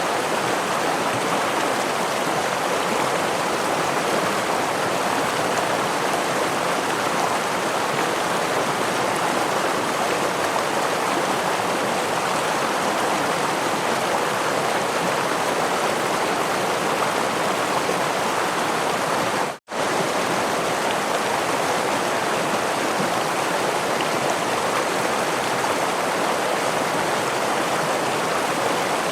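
Steady rush of a stream's flowing water, an even hiss with no changes. It cuts out completely for a split second about two-thirds of the way through.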